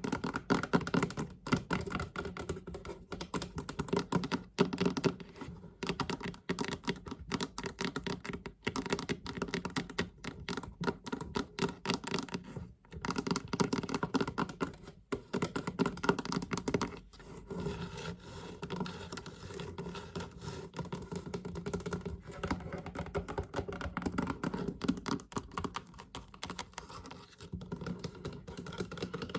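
Fingers tapping fast on a storage chest: a dense, rapid run of clicks and knocks, broken by a few brief pauses around the middle.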